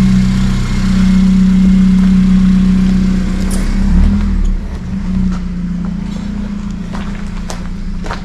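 Honda Civic Type R FN2's 2.0-litre four-cylinder engine idling with a steady hum that eases slightly about halfway through. A few light clicks come near the end.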